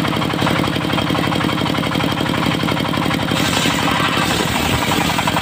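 Diesel engine of a mobile circular sawmill running steadily with an even, rapid chugging beat. A higher hiss joins in a little past halfway.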